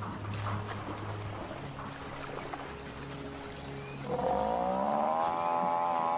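African buffalo bellowing in distress under a lion attack: one long, loud call with a slight rise in pitch, starting about four seconds in, over a score of low held musical notes.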